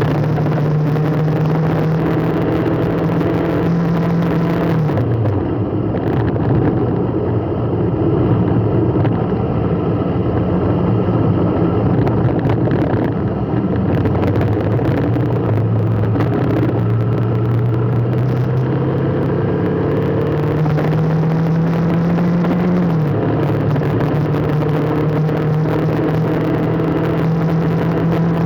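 Vehicle engine running while driving. Its pitch drops about five seconds in, climbs slowly later on, then falls sharply near the end, as with a change of speed and a gear shift, over steady road noise.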